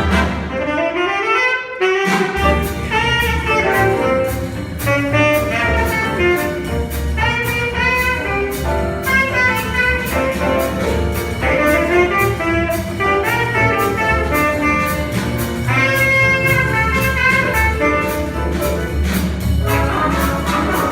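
Jazz big band swinging: the band plays a rising run, then a horn solo begins about two seconds in over a steady cymbal beat and walking bass.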